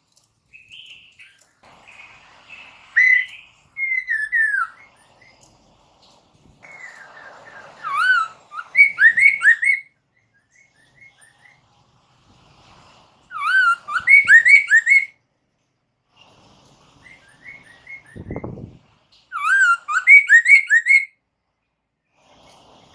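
Black-throated laughingthrush (poksay mandarin) singing: loud bursts of rapid, looping whistled notes, four phrases several seconds apart, with softer chirps between them. A single low thump comes between the last two phrases.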